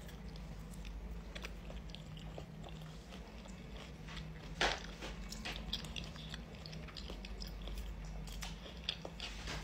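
A person eating soft food with their fingers: quiet chewing with small scattered mouth clicks, and one louder smack about four and a half seconds in. A low steady hum lies underneath.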